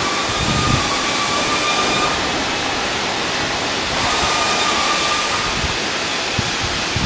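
Steady, loud hissing machine noise with a thin, steady whine, from shipyard work machinery.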